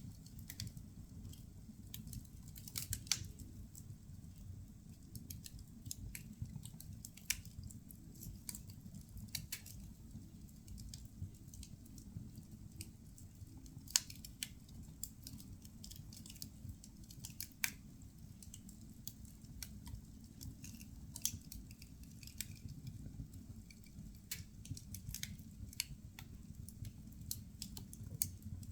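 Firewood burning in a fireplace, crackling with irregular sharp pops and snaps over a low steady rumble of the fire, with one sharper pop about halfway through.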